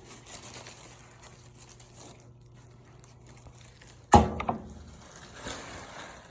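Soft rustling and crinkling, then a single sharp knock about four seconds in, the loudest sound, under a faint steady hum.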